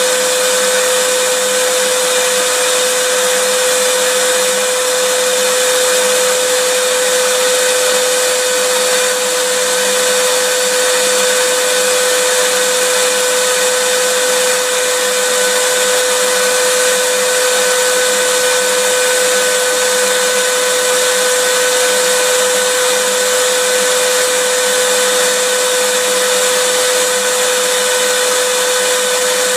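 Vacuum cleaner motor running steadily without a break: an even rushing hiss with a steady whining tone.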